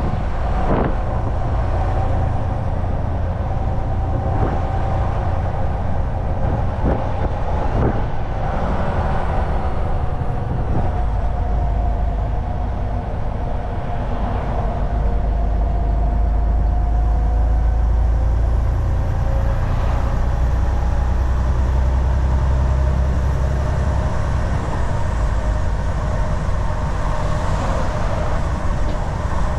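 Volvo VNL 760 semi-truck cruising on the highway: a steady low engine drone with tyre and road noise. A few sharp knocks come in the first several seconds, and the low rumble swells for a while in the middle.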